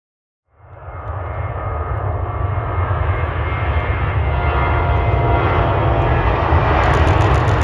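Airliner jet engines, a deep rumble with a rushing roar over it, starting about half a second in and building steadily louder as the aircraft nears.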